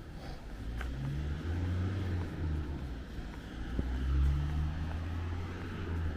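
A car engine's low hum on the street, swelling twice and loudest about four seconds in.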